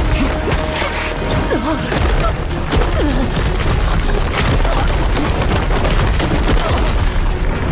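Dense crackling and rumbling sound effects: a heavy low rumble under a rapid, continuous patter of sharp cracks, with music faintly underneath.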